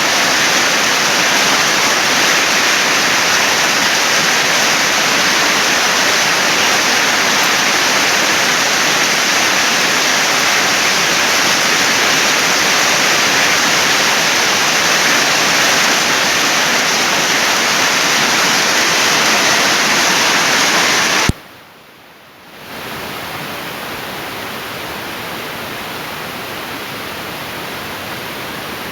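Heavy rain pouring down in a storm, a steady loud hiss. About 21 seconds in it cuts off suddenly, and after about a second of quiet it comes back steady but softer.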